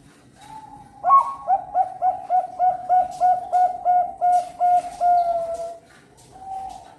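Zebra dove (Thai-bred perkutut bangkok song bird) cooing: a soft opening note, then a fast run of about a dozen short coos at roughly three a second, ending in a longer drawn-out coo, with one faint coo near the end.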